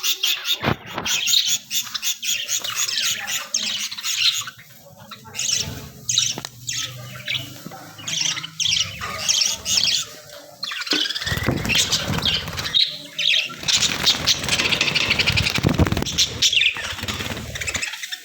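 A flock of budgerigars chirping and chattering, with wings flapping. The flapping grows loud over the second half, from about eleven seconds in.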